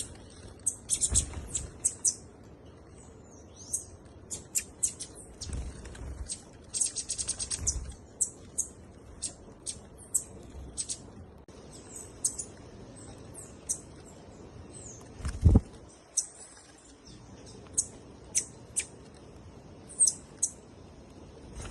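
Small birds chirping: many short, high calls throughout, with a fast trill about seven seconds in. A single low thump about fifteen seconds in is the loudest sound.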